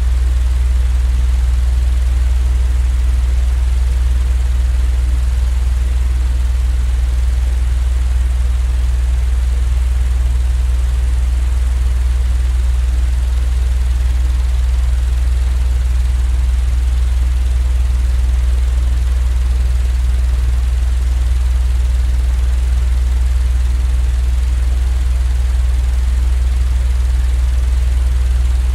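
Steady, unchanging deep rumble with a faint even hiss above it, a continuous sleep-noise track.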